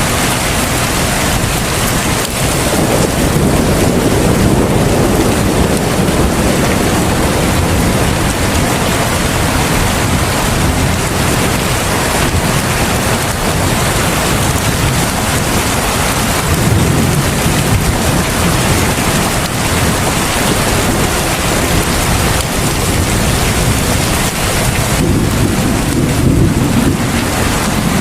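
Heavy rain pouring steadily, a dense even hiss, with low rumbles swelling up and fading a few times.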